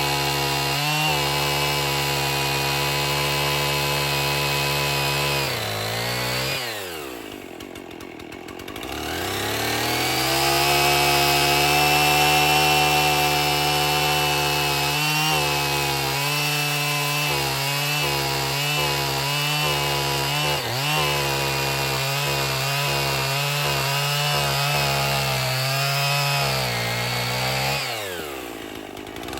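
Husqvarna 55 two-stroke chainsaw engine running at high revs. About six seconds in it slows to idle, then revs back up, and near the end it slows again. In between, its speed wavers unevenly.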